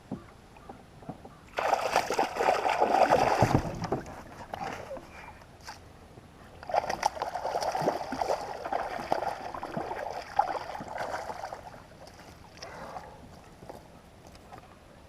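Water sloshing and splashing at a kayak, in two bouts of a few seconds each.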